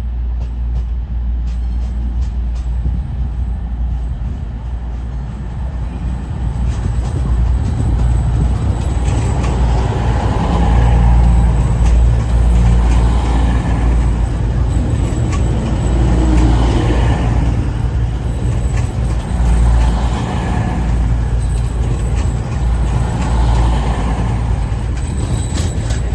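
Diesel train at a station platform, engine running with a deep steady rumble and swells of louder noise every few seconds.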